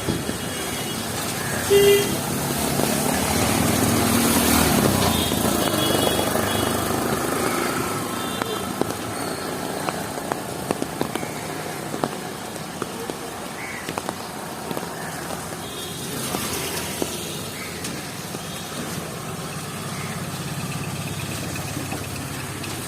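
Street ambience in heavy rain: a steady hiss of rain and wet traffic, with a vehicle passing louder a few seconds in and murmured voices in the background. Short high toots and small sharp ticks come through the noise.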